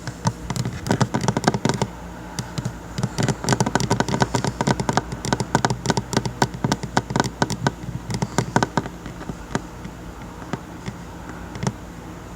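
Fingers tapping on a table in quick, uneven clusters of sharp taps, thinning out after about nine seconds to a few single taps.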